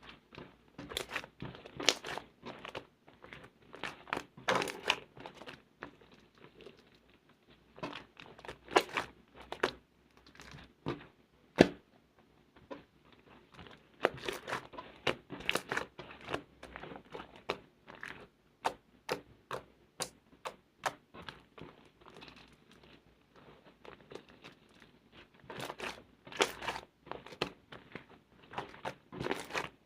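Slime being squished and stretched by hand, making irregular clusters of sharp clicks and pops.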